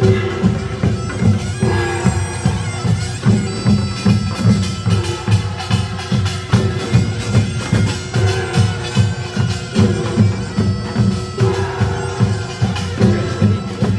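Korean Gyeongsang-do nongak (farmers' band music): a loud, nasal reed shawm, typically the taepyeongso, plays a wavering, sliding melody over an even, pounding beat of drums and gongs.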